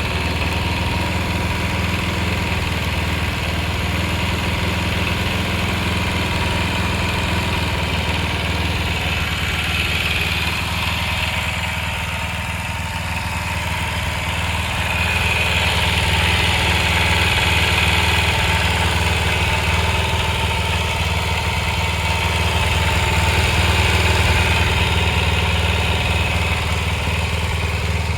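Kawasaki Eliminator 250SE motorcycle engine idling steadily, growing a little louder about halfway through.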